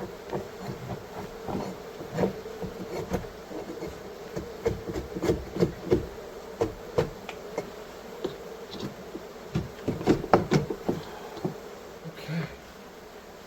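A mass of honeybees buzzing with a steady hum from an opened wall colony. Over it come irregular knocks and taps from handling the comb, loudest and most frequent about ten seconds in.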